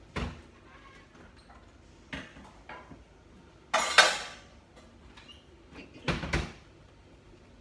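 Kitchen bowls and dishes knocking and clattering as a bowl is taken out and set down. There are several separate knocks, and the loudest clatter comes about four seconds in.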